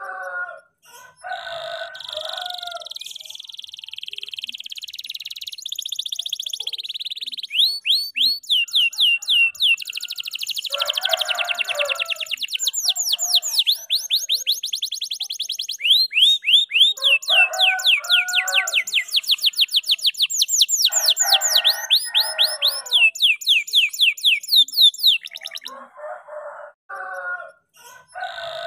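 F2YS canary singing a long, unbroken song of fast trills and rapid runs of repeated down-sweeping chirps. Lower, coarser calls break in about five times.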